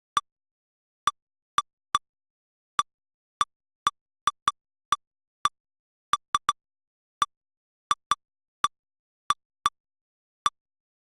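Short identical electronic blips, about twenty of them at irregular gaps with silence between, from the sound effect of a lightning detector's history playback.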